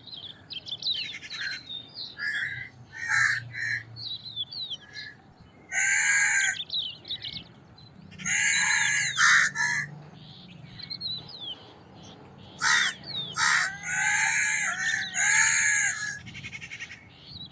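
Crows cawing in harsh calls, in loose groups with gaps between them; the loudest come around the middle and near the end. Smaller birds chirp quickly in the background throughout.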